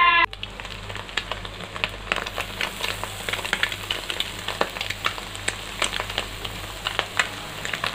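Egg fried rice with capsicum and grated cabbage sizzling and crackling in hot oil in a wok, a dense run of small pops over a steady hiss, with a steady low hum beneath.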